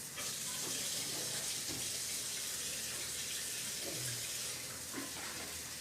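Water running steadily from a tap, switched on suddenly, with a few faint knocks underneath.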